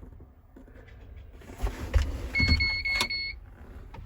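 Steady electronic warning beep from a 2012 Volvo A25F articulated hauler's cab instrument panel, lasting about a second, over a low rumble and a few knocks in the cab.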